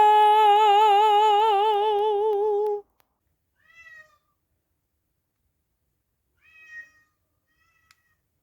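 A long, drawn-out meow with a regularly wavering pitch that cuts off about three seconds in, followed by two faint short meows.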